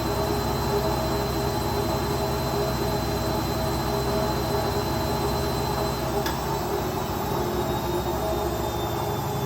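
Indesit Ecosense washing machine on its spin cycle, the drum spinning fast with a steady hum and a high whine. A faint click comes about six seconds in.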